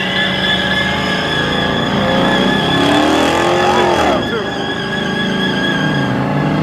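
Engines revving hard at full throttle during a vehicle tug of war, with the revs climbing to a peak about four seconds in and then dropping off.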